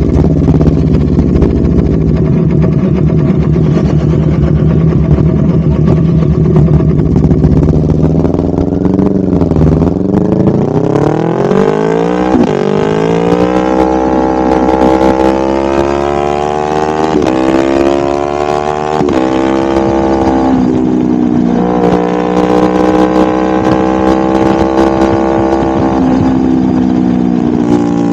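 Honda CBR250RR with a DST full-system aftermarket exhaust running steadily, then revving up and pulling away. The pitch climbs through the gears with short drops at the shifts, then holds fairly steady at cruising speed near the end.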